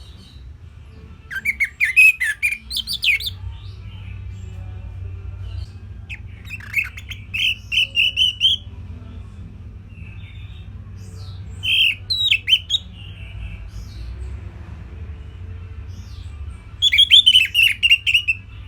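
Orange-headed thrush singing: four short phrases of quick, varied notes spaced several seconds apart, over a steady low hum.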